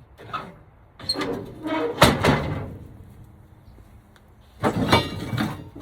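Handling of a truck's lift gate: a loud metal bang about two seconds in, then a quick clatter of rattles near the end.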